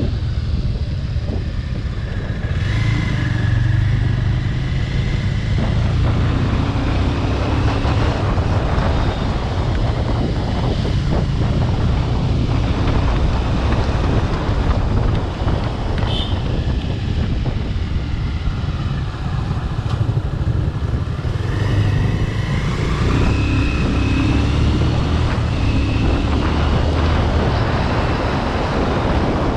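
Bajaj Pulsar RS200 motorcycle with an aftermarket exhaust running steadily under way, its engine and exhaust note mixed with wind on the microphone.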